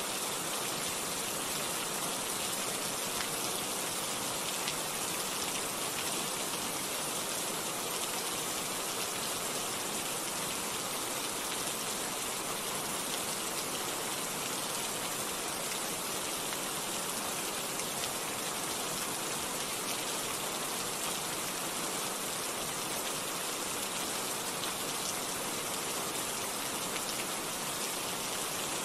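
Steady rain falling: an even, unchanging hiss of many fine drops.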